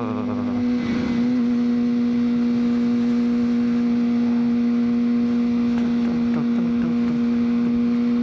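2003 Honda CBR600RR's inline-four engine running at steady revs, one even, unchanging note, with wind rush.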